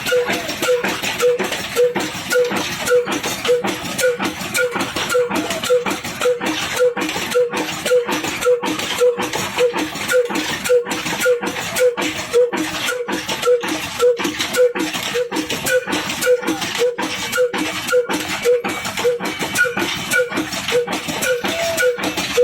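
Ruston Hornsby single-cylinder diesel engine running steadily, its exhaust beats coming evenly at about two a second.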